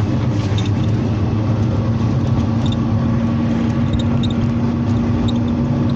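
Mercedes-Benz Sprinter minibus under way, heard from inside the cabin: a steady low engine and road rumble, with a level droning tone from about a second in and light rattles.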